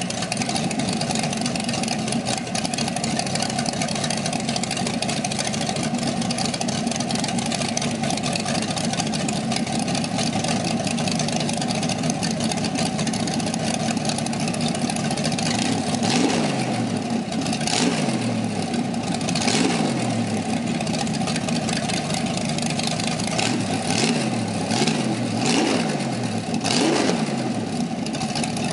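1967 Corvette L79 327 small-block Chevy V8 running through open headers with a cam: a steady idle, then from about halfway through a series of quick throttle blips, each revving up and dropping back to idle.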